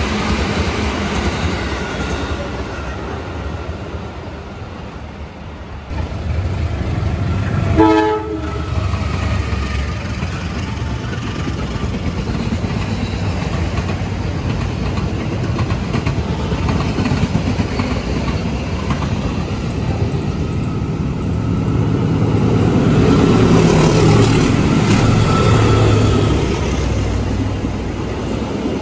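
Passenger trains running past on the line: a steady rumble and clatter of wheels on rail, with one short train horn blast about eight seconds in. The rumble grows louder near the end as express train coaches pass close.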